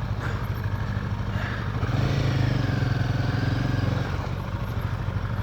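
Motorcycle engine idling steadily, its note swelling slightly for a couple of seconds midway before settling back.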